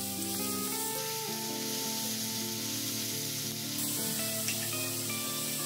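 Sliced beef and onion sizzling in oil in a frying pan as they are stir-fried with chopsticks, with a steady hiss, over background music with held notes.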